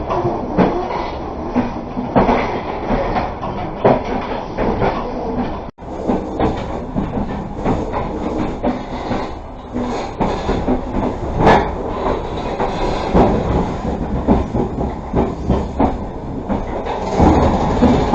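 Passenger train coach running along the track, heard from inside the carriage: a steady rumble of wheels and running gear with irregular clacks and knocks from the rails. The sound cuts out for an instant about six seconds in.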